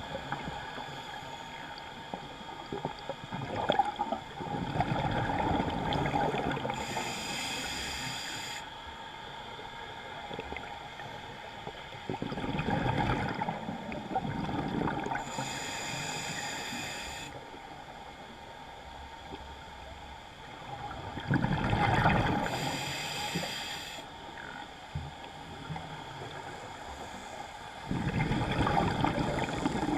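Scuba regulator breathing underwater: a hissing inhalation through the regulator alternates with a bubbling rumble of exhaled air, a breath every seven or eight seconds, about four in all.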